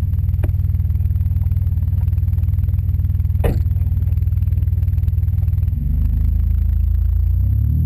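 1997 Pontiac Firebird's engine idling through an Edelbrock exhaust, a steady, pulsing low note. A sharp click comes about three and a half seconds in; the note changes near six seconds and starts to rise in pitch near the end.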